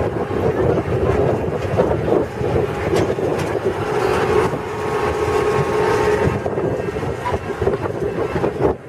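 Farm ride truck running and rumbling along with the steady rattle of the moving ride, with a brief drop near the end.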